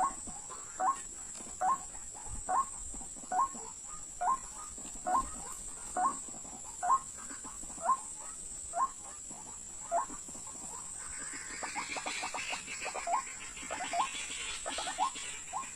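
White-breasted waterhen calling: a short rising note repeated a little more than once a second. After about eleven seconds the calls turn faster and more broken over a raspy hiss.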